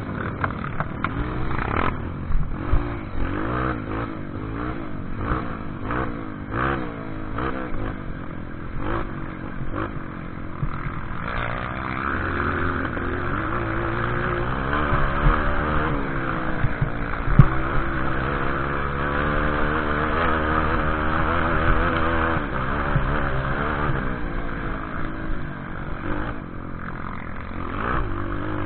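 Trail motorcycle engine running and revving up and down over rough ground, with clattering knocks from the bike and terrain throughout.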